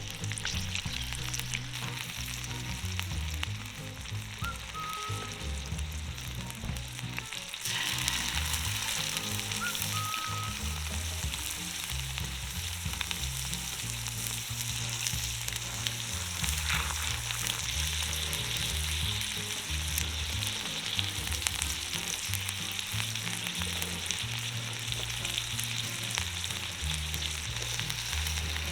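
Fish frying in hot oil in a pan, sizzling and crackling steadily, louder from about eight seconds in; the moisture in the fish makes the oil spit.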